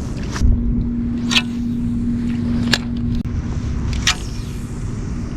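Small electric trolling motor running with a steady hum, under a low rumble of wind on the microphone, with a few separate sharp clicks about a second and a half apart.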